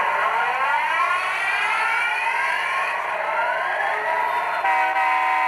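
Tsunami 2 sound decoder in an HO-scale SD90MAC model, heard through the model's small speaker: a whine that climbs steadily in pitch. Near the end the locomotive's horn blows one steady chord.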